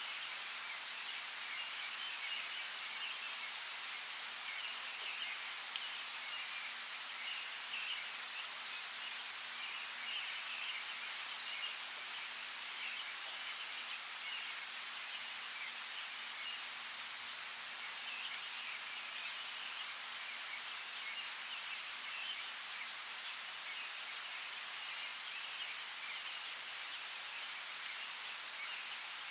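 Steady rain, with individual drops ticking sharply now and then, and birds chirping intermittently in the background.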